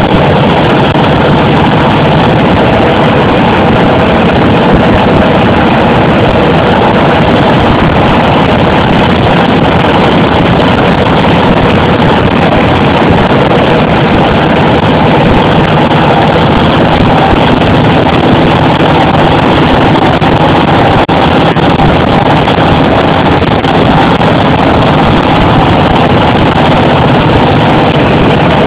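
1940 Harley-Davidson ULH's flathead V-twin engine running steadily while the motorcycle is ridden, loud and close, with no let-up.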